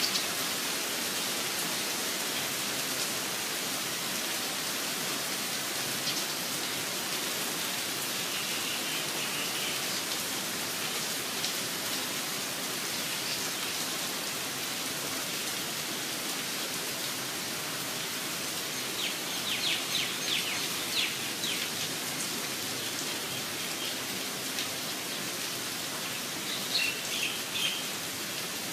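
Steady rain falling, with a bird calling over it in short runs of quick chirps, several times.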